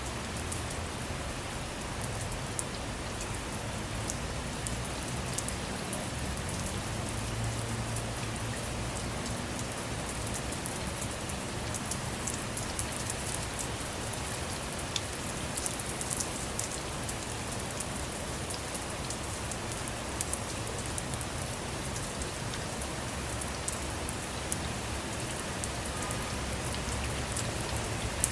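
Steady rain falling on a car, heard from inside, with many small drop taps scattered through it.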